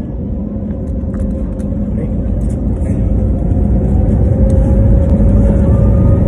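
Airliner engine noise: a deep rumble with a steady hum, growing steadily louder.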